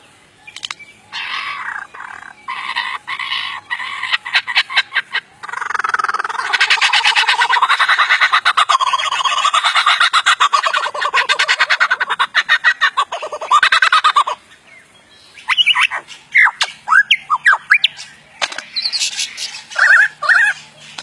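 Superb lyrebird singing a string of mimicked calls: a few short separate notes, then a long run of rapidly repeated notes lasting several seconds, then sharp, quick sweeping chirps near the end.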